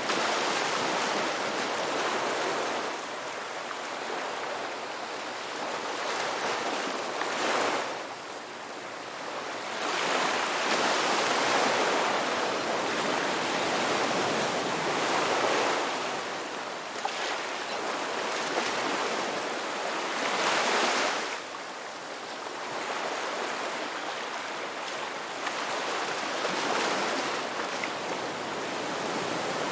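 Ocean waves breaking and washing on a shore, a continuous surf that swells and ebbs every few seconds.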